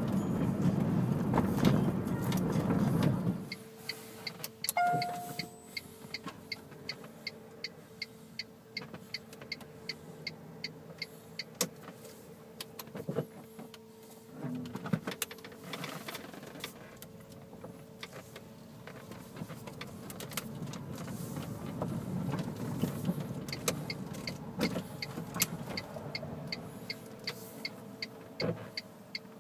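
Tesla Roadster being driven, heard inside the cabin: a louder rush for the first few seconds that cuts off suddenly, then a quiet hum with a faint steady whine and a regular ticking, a bit under two ticks a second, through most of the rest.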